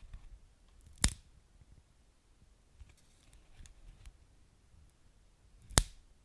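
Wood fire crackling in a fireplace: two sharp, loud pops, about a second in and near the end, with a few faint small crackles between.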